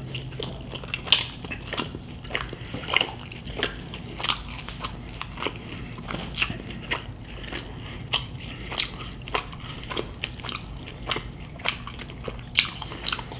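Crispy fried pork belly (lechon kawali) being bitten and chewed, with sharp crackling-skin crunches coming irregularly, about one or two a second.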